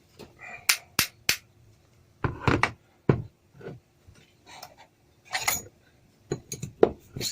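Hammer tapping on the steel parts of an old car jack to drive out a pin: irregular sharp metallic knocks and clinks, with a quick run of them near the end.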